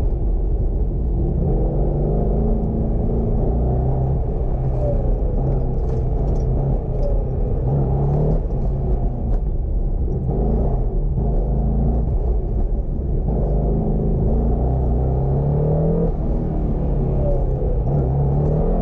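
Twin-turbocharged 2006 Corvette Z06's V8 engine under hard driving through an autocross cone course, its revs rising and falling again and again over a heavy low rumble.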